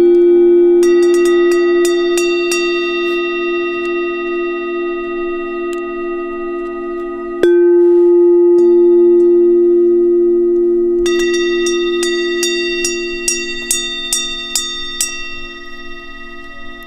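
A singing bowl ringing in a long, steady tone with a slow pulsing wobble, struck again about seven and a half seconds in. Over it, a high, bright chime is struck lightly in quick runs near the start and again in the second half.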